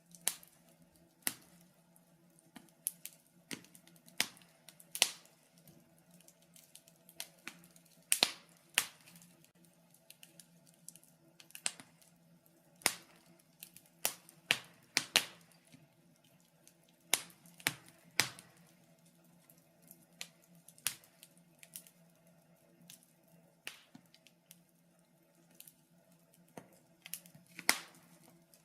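Wood fire in a fireplace crackling: irregular sharp snaps and pops, some close together and some a few seconds apart, over a faint steady low hum.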